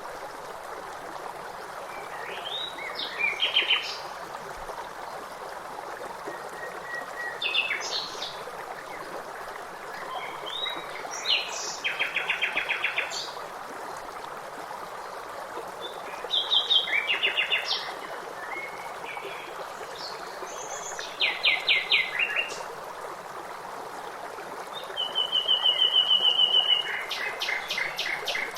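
A songbird repeating a short song about every four seconds, each phrase ending in a rapid trill, over steadily running water.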